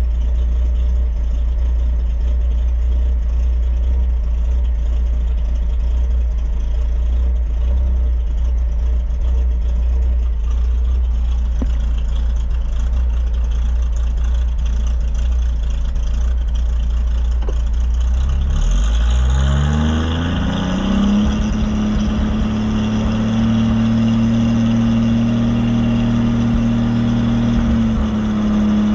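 Truck's Ford Crossflow four-cylinder engine running stationary while it warms up during a cooling-system test. About two-thirds of the way through, its pitch rises smoothly and then holds steady at a faster speed.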